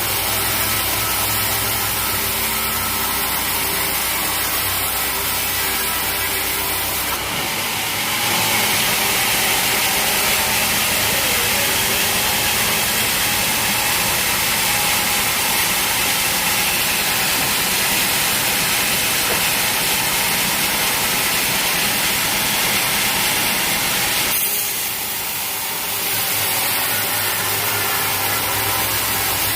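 Sawmill machinery running steadily with a low engine hum; from about seven seconds in the sound changes to a louder, even hissing noise of the saw working through the teak, with a brief dip near the end before the hum returns.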